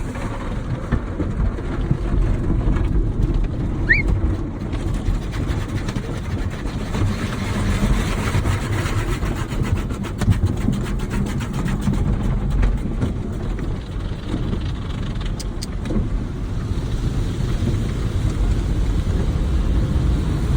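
Automatic car wash machinery and water working over the car, heard from inside the cabin as a steady low rumble. A fast run of ticks lasts several seconds around the middle, and a brief rising squeak comes about four seconds in.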